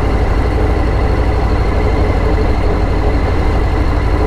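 Motorcycle riding at a steady cruising speed: the engine runs evenly under a heavy, steady low rumble of wind and road noise.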